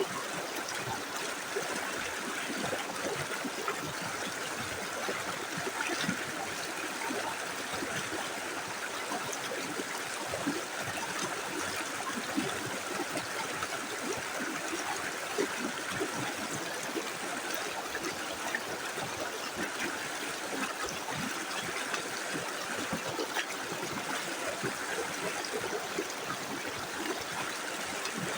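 Small river flowing steadily over stones: an even rushing of water with constant small burbles and splashes.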